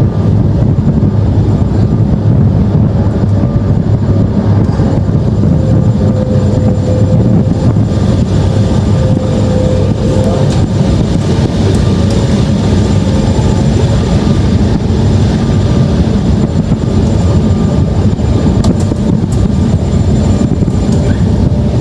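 Airliner cabin noise during descent: a loud, steady rumble of engines and airflow, with a faint steady whine running through it.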